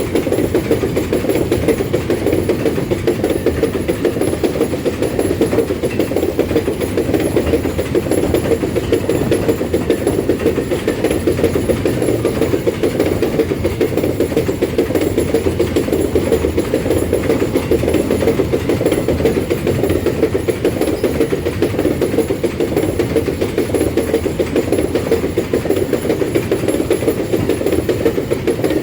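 An empty iron-ore freight train rolling past, a steady rumble that does not let up.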